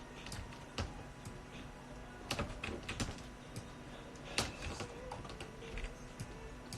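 Computer keyboard being typed on, irregular key clicks at an uneven pace, a few of them louder, over a faint steady hum.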